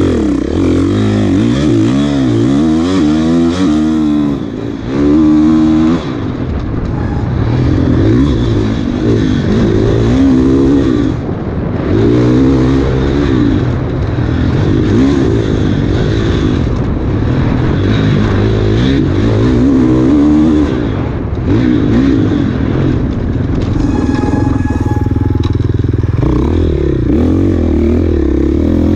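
Dirt bike engine at racing pace, its pitch rising and falling over and over as the throttle is opened and closed.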